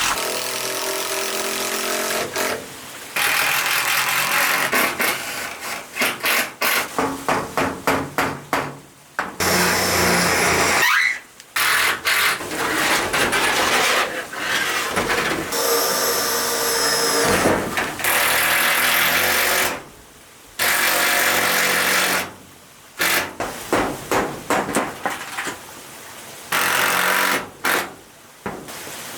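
A handheld power tool run in bursts, starting and stopping many times, with stretches of quick, choppy strokes in between.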